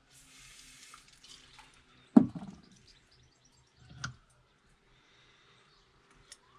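Tools and a brake caliper handled on a workbench: a sharp metal knock about two seconds in and a softer knock about two seconds later, with faint rustling at the start.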